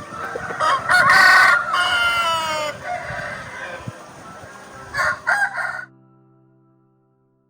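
Rooster crowing: one long crow with a drawn-out, falling tail, followed about five seconds in by two short, loud calls.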